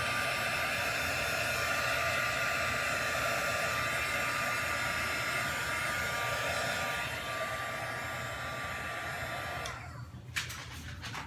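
Handheld electric hot-air blower running steadily with a constant motor whine, heating freshly poured acrylic paint to pop air bubbles; it switches off near the end, followed by a couple of small clicks.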